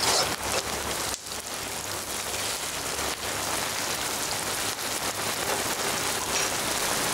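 Chopped onions, green chilies, curry leaves and ginger-garlic paste sizzling steadily in hot oil in a kadai over a medium flame, with a short dip about a second in.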